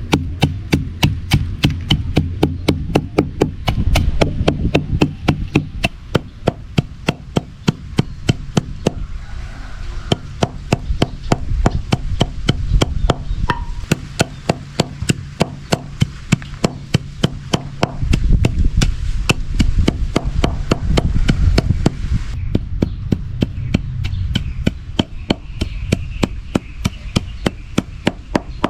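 A hand tool striking turmeric root in a fast, steady rhythm, about three hard blows a second.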